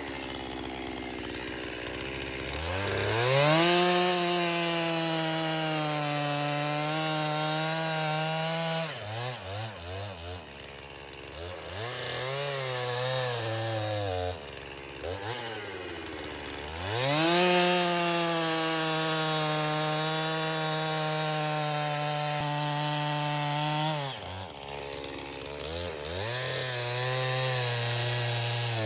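Stihl MS261 two-stroke chainsaw with a 25-inch bar bucking a poplar log into firewood rounds. It revs up to full throttle for two long cuts of about six seconds each, the pitch wavering slightly under load. Between cuts it drops back to idle, with shorter bursts of throttle.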